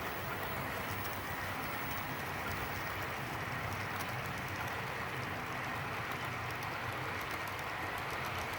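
Model coal train running on the layout's track, led by a Kato SD80MAC locomotive: a steady whirring rumble of motor and wheels on rail, with a faint high whine and light scattered ticks.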